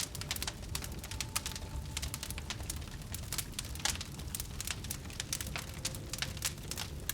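A fire burning and crackling, with many quick sharp pops and snaps over a low steady rumble.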